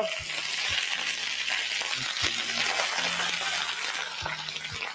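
Wet lettuce leaves frying in a little hot oil with sliced garlic, a steady sizzle as the water on the freshly washed leaves hits the hot pan and turns to steam. A few soft knocks sound under the sizzle.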